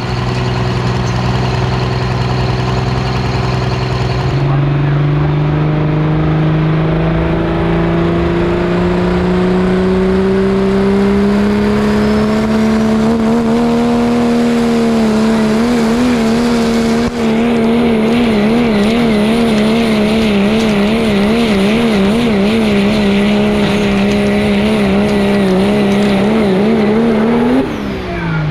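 Pickup truck engine at full throttle pulling a sled. The revs climb slowly, then waver rapidly up and down, and fall off sharply near the end as the throttle is let off.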